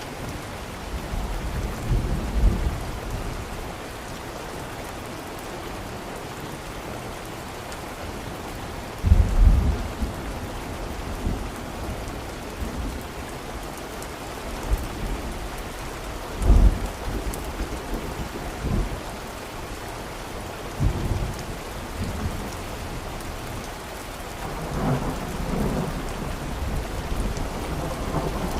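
Steady rain with rolls of thunder rumbling low several times, the strongest about two, nine and sixteen seconds in.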